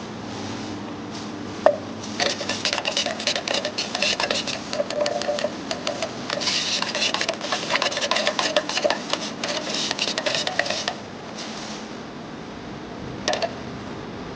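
Paint being stirred in a metal tin: a sharp tap, then about nine seconds of rapid clinking and scraping with a ringing tone, which stops suddenly; one more tap near the end.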